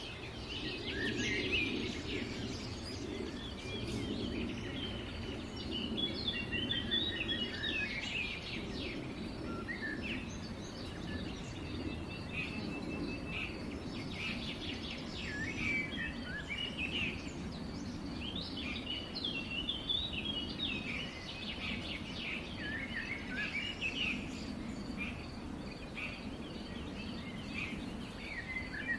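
Several birds chirping and trilling in quick, overlapping short calls, over a steady low background rumble.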